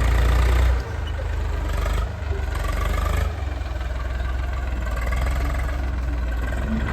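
Heavy-machinery diesel engine running with a deep, steady rumble that eases down in level in a few steps during the first three seconds, then holds steady.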